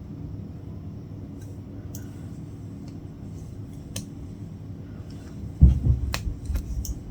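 Latch hook work: a few small, sharp clicks of the hook and yarn against the canvas, with one louder low thump a little past the middle, over a steady low hum.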